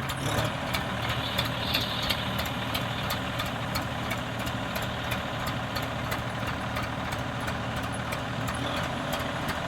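Diesel tractor engine running steadily at low revs, with an even, regular clatter.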